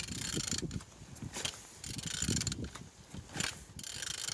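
Used B16A engine running, a mechanical whirring and clatter that comes and goes in uneven surges about once a second; the seller judges it to be running well.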